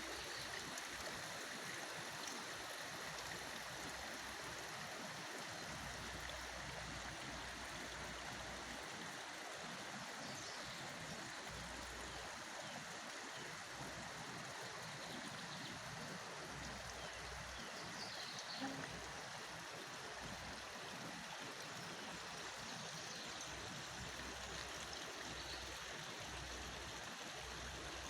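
Flowing stream rushing steadily.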